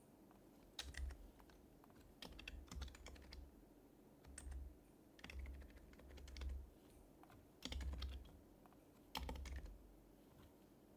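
Typing on an HHKB Professional HYBRID Type-S keyboard with silenced Topre capacitive switches. The keystrokes come in about seven short runs of soft clicks with brief pauses between them, each run carrying a dull low thud.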